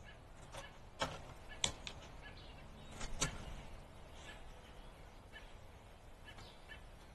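Backyard birds: a scatter of short calls mixed with sharp clicks, the loudest about a second in, again just after one and a half seconds, and a cluster around three seconds in.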